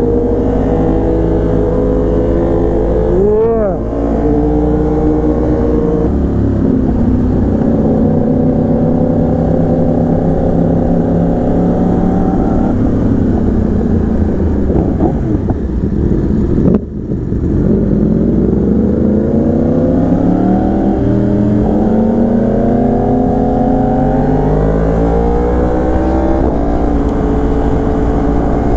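Sport bike engine running under way, its pitch rising and falling with the throttle and gear changes; about halfway through it drops briefly at a shift, then climbs steadily as the bike accelerates.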